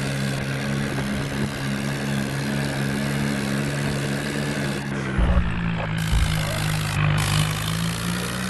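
Ford 3600 tractor's three-cylinder diesel engine running steadily. About five seconds in the sound changes to a lower, heavier rumble with a couple of louder thumps.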